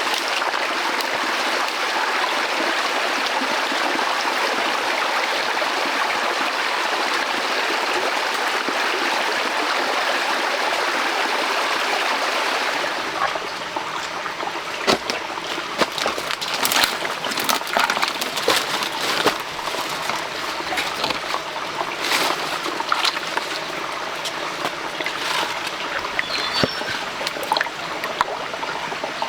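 Stream water running steadily. About thirteen seconds in the rush gives way to a softer trickle with scattered splashes and clicks.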